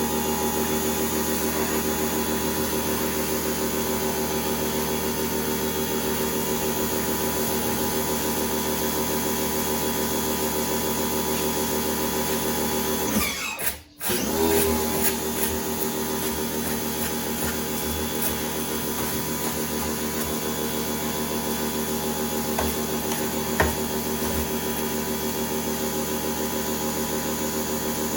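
An electric power tool's motor running at a steady speed with a constant whine. About halfway through it stops for a moment, winds down and spins back up, then runs on steadily.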